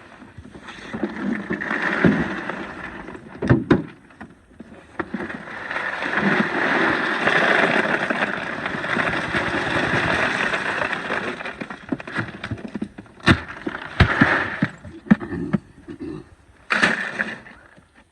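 Ice being dumped over a pile of fish, a loose rattling pour in two long spells, with sharp knocks and clatters in between and after.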